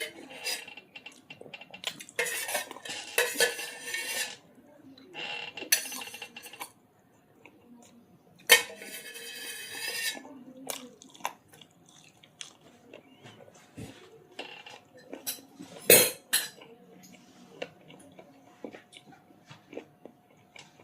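Cutlery and dishes clinking and scraping while food is eaten: many short sharp clicks, with a few longer scrapes of about a second each.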